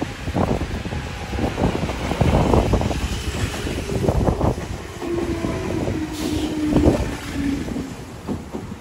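Red Meitetsu electric commuter train passing close by, its wheels clacking over rail joints in a run of knocks. About five seconds in, a short whine rises over the clatter, drops slightly in pitch, then fades.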